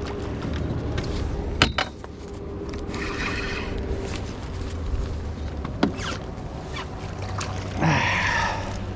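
Sounds of a fish being played and landed in a small boat: a steady low hum with a couple of sharp knocks against the boat, and two short bursts of splashing or handling noise, one about three seconds in and one near the end.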